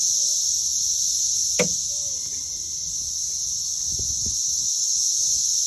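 Dense chorus of periodical 17-year cicadas: a steady, high-pitched drone. One sharp click sounds about a second and a half in.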